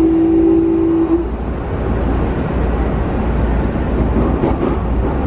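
Running sound inside a Keikyu New 1000 series motor car with Mitsubishi IGBT-VVVF traction equipment: a steady inverter and motor tone stops about a second in, leaving the wheel and track rumble of the train running on.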